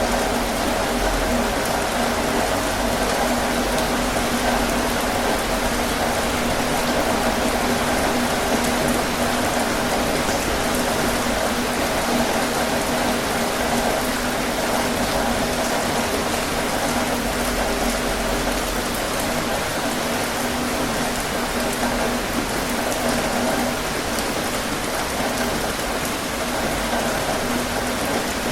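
Heavy rain falling steadily on a tin roof, an even hiss with no breaks or thunderclaps.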